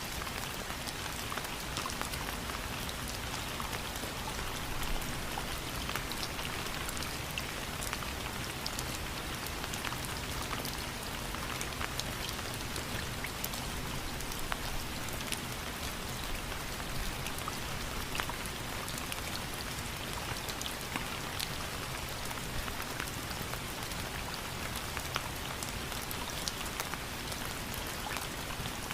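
Steady rain falling, a dense even hiss with many individual drops ticking sharply on a hard surface.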